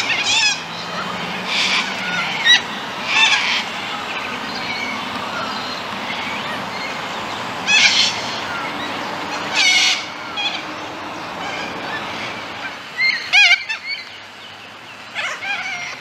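Birds calling: short, sharp pitched calls in small clusters every few seconds, loudest about three-quarters of the way through, over a steady background hiss.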